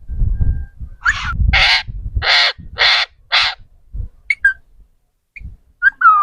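A parrot squawking harshly five times in quick succession, followed by a few short chirps and then a pitched, whistle-like call near the end.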